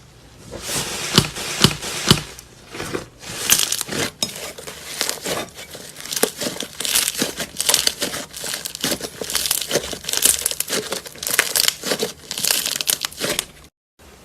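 Slime being squeezed and worked by hand, a dense irregular crackling with sharp pops. It breaks off briefly near the end.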